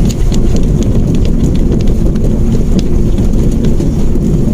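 Mitsubishi Mirage hatchback on the move, heard from inside: a steady low rumble of engine and road noise, with scattered light ticks and rattles.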